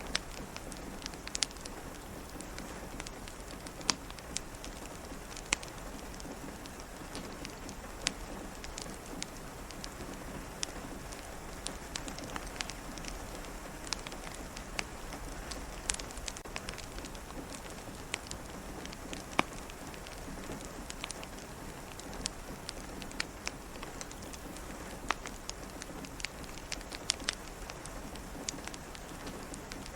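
Steady rain pattering, layered with a crackling fireplace whose sharp pops come at irregular moments throughout.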